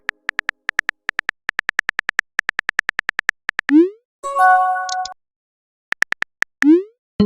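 Messaging-app sound effects: rapid keyboard tap clicks, about six a second for some three seconds, then a quick rising pop of a message being sent and a short chime of a few steady tones. Near the end come a few more taps and another rising pop.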